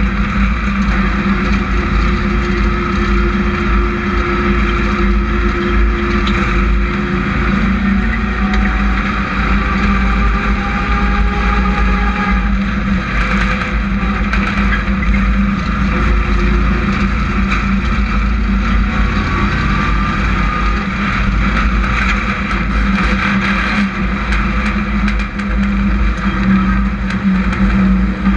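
Several hobby-class race trucks running laps together, engines under load in a continuous loud rumble, with engine pitch rising and falling now and then as trucks come past.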